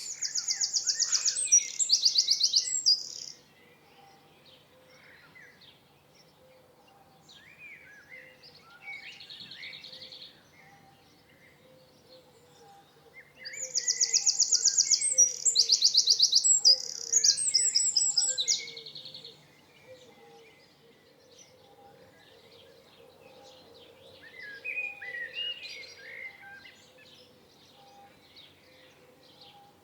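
Songbirds singing: a loud song of fast, high trills comes twice, about thirteen seconds apart, with quieter calls from other birds in between over a faint background.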